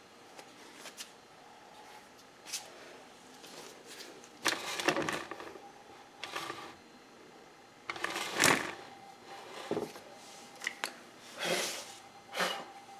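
Irregular scrubbing and brushing strokes of dust being cleaned from under a refrigerator, coming in short noisy bursts, the loudest about two-thirds of the way in, over a faint steady hum.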